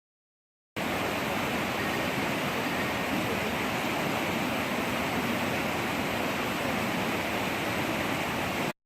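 Steady rushing noise like fast-flowing water, starting and stopping abruptly.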